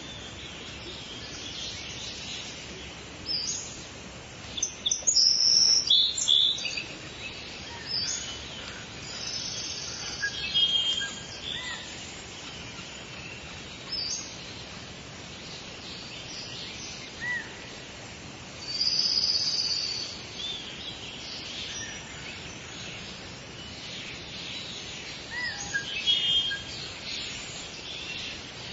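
Several songbirds chirping and singing in short high phrases over a steady background hiss of outdoor ambience, with the loudest bursts of song about five seconds in and again near twenty seconds in.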